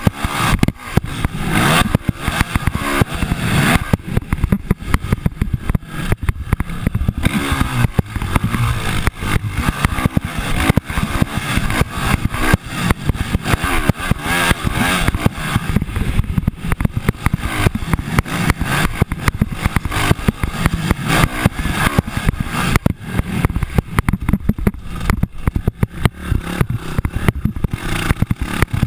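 Motocross dirt bike engine running hard with a rapid firing rattle, the throttle opening and closing several times.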